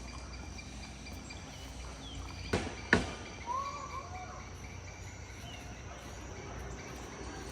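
Outdoor countryside ambience: a steady high insect drone with a few short bird calls. Two sharp knocks about two and a half and three seconds in are the loudest sounds.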